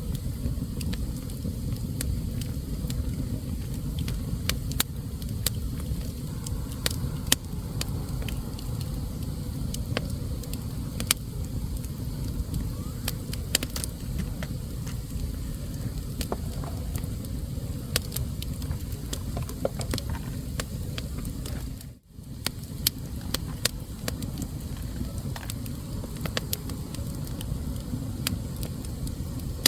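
Wood fire burning in a fireplace: a steady low rumble of flames with scattered sharp crackles and pops from the burning logs. The sound dips out briefly about three-quarters of the way through.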